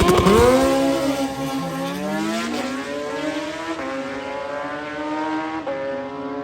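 Drag-racing motorcycle launching hard and accelerating away down the strip, its engine pitch climbing and then dropping back at each of a couple of upshifts as it grows fainter.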